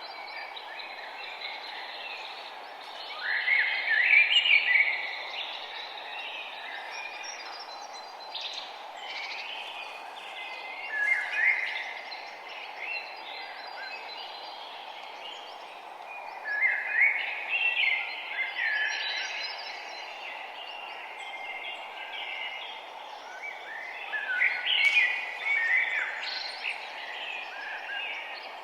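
Songbirds singing in short chirping phrases every few seconds, with the loudest bursts about three to five seconds in, near eleven and seventeen seconds, and again near the end, over a steady background rush.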